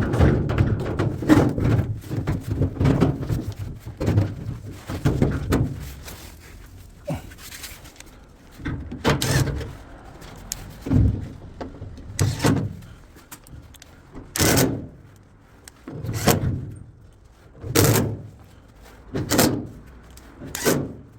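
Dense clatter, then a run of separate thumps about every second and a half.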